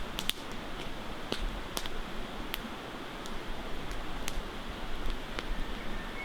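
Wood fire crackling, with sharp irregular pops and snaps over a steady rush of flowing river water.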